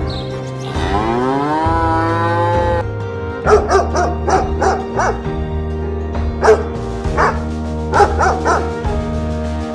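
A dog yipping and barking in quick clusters of short calls over steady background music, after one long rising call about a second in.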